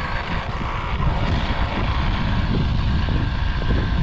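Off-road vehicle's engine and drivetrain running steadily, a dense low mechanical rumble with a faint steady whine above it, on a machine whose clicking the riders have traced to the rear differential.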